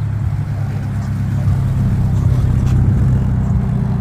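A car engine running with a deep, steady low rumble, swelling a little louder through the middle.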